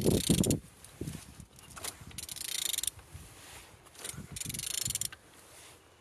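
A Renault K9K 1.5 dCi diesel engine being turned over by hand. There is a clunk at the start, then two bursts of mechanical noise from the turning engine, about two seconds apart. It turns freely.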